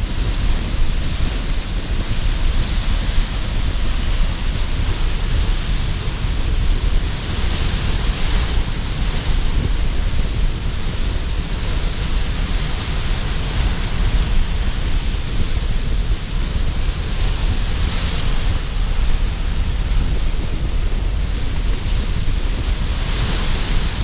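Sea surf breaking under strong gusting wind: a continuous low rumble with a hiss that swells and fades as waves wash in, about three times standing out.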